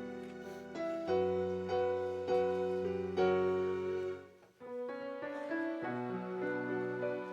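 Piano playing slow sustained chords as offertory music, with a short break about four and a half seconds in before the playing resumes.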